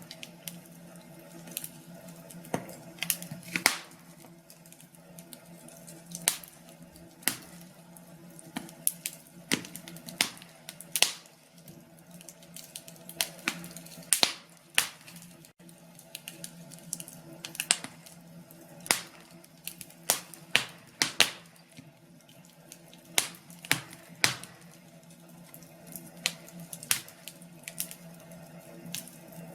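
Wood fire crackling, with irregular sharp snaps and pops, several in quick succession at times, over a steady low hum.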